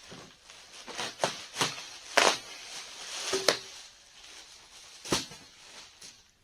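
Unboxing handling noises: about six short, sharp scrapes and rustles of packaging being pulled and shifted around an aluminum fuel tank.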